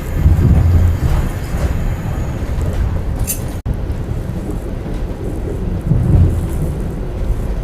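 Loud, steady low rumble of a train, with a brief high hiss a little over three seconds in and a sudden dropout just after.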